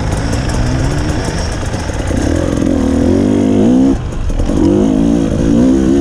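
KTM enduro motorcycle engine under throttle, heard close from the rider's own bike: the pitch climbs for a couple of seconds, drops sharply about four seconds in, then climbs again.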